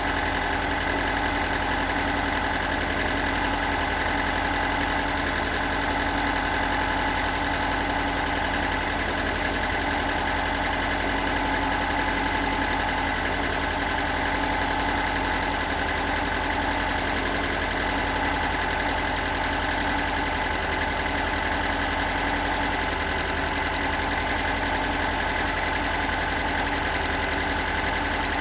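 Toyota AE86's stock 4A-GE 1.6-litre four-cylinder engine idling steadily, with the rough idle and knocking sound whose cause the owner has not yet found.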